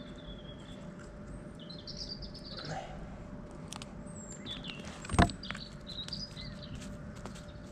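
Small birds chirping and calling on and off, with a single sharp knock about five seconds in.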